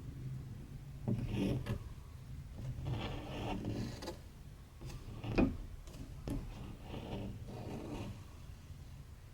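Cotton embroidery thread being drawn through cross-stitch fabric: a series of short rubbing pulls, about five in nine seconds, with a couple of light clicks between them.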